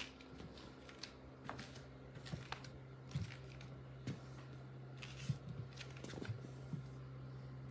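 Scattered faint clicks and light taps over a steady low hum.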